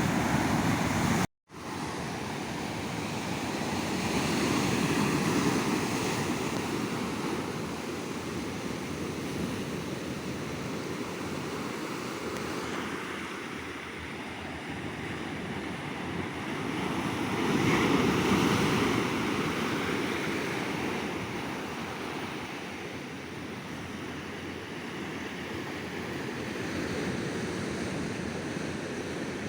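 Sea waves breaking and washing on the shore, swelling louder twice, around five seconds in and again near eighteen seconds. The sound cuts out completely for a split second just over a second in.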